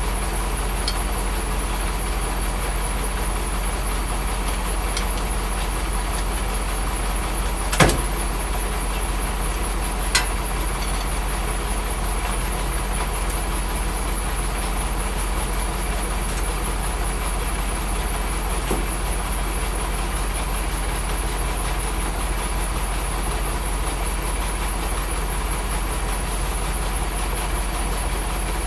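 Heavy diesel truck engine idling steadily, with a sharp metallic knock about eight seconds in and a lighter click two seconds later.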